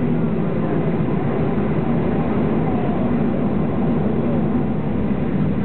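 Steady, even rumble of an airliner's passenger cabin, from the jet engines and air system, with no rise in level.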